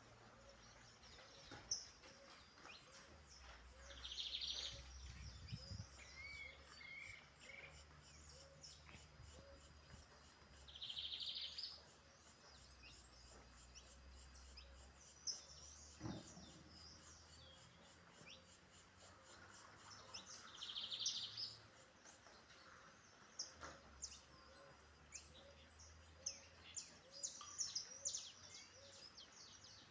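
Faint birdsong: scattered short, high chirps, three longer buzzy calls several seconds apart, and a quick flurry of chirps near the end.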